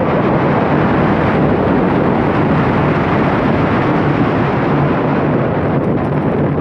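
Wind rushing over the camera microphone, with the rumble of the coaster train, as the SheiKra dive coaster runs at speed: a loud, steady rushing noise.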